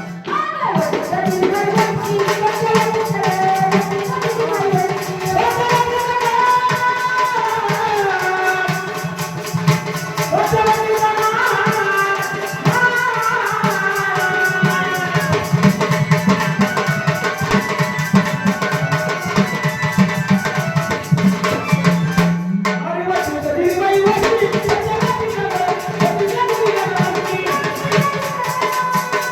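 Marathi devotional singing: a woman's voice in long, gliding held phrases over tabla and rattling percussion, with a steady low drone underneath. Everything drops out briefly about 22 seconds in, then the voice and accompaniment resume.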